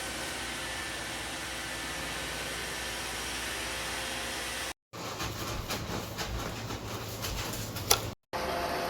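Steady whirring of a robot vacuum cleaner running, broken by two abrupt cuts to silence. One sharp click comes near the end of the middle stretch.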